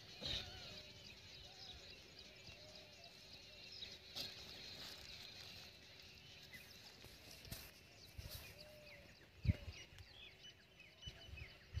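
Quiet outdoor ambience of small birds chirping in the background, short falling chirps repeated throughout, with a dull thump about nine and a half seconds in.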